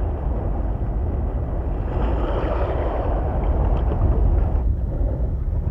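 Steady low rumble of wind buffeting the microphone out on open sea water, with a faint wash of water under it.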